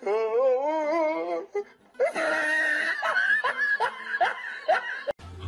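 A person laughing: first one long wavering laugh, then breathier laughs in quick repeated pulses.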